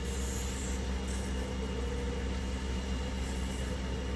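Steady, even hum of an idling engine, with a constant low drone.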